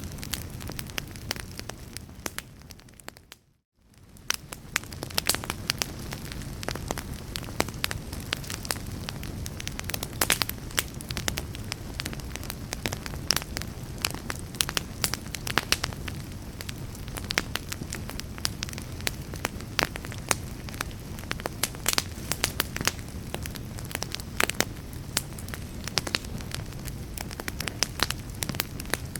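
Wood fire crackling, with many sharp clicks over a low steady rumble. About three seconds in, the sound fades out to a moment of silence and then fades back in.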